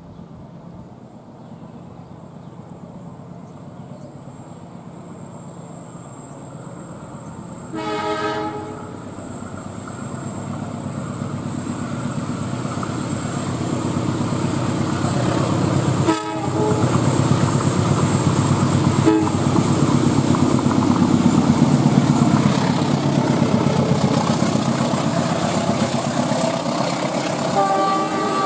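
CC 201 diesel-electric locomotive hauling a passenger train as it approaches. It gives one horn blast about a quarter of the way in. The engine and wheel noise grow steadily louder into the rumble of the coaches rolling past.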